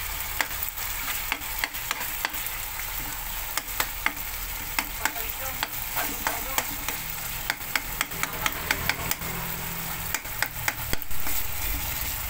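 Corned beef, diced potatoes and onion sizzling in a metal wok as a metal spoon stirs and scrapes through them, with frequent sharp clicks of the spoon against the pan.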